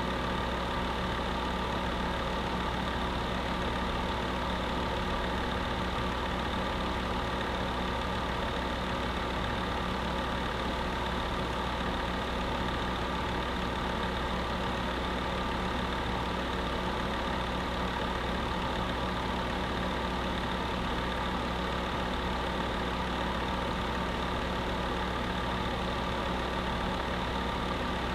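Electric space heater running steadily: a constant hum with several fixed tones over an even hiss, without change.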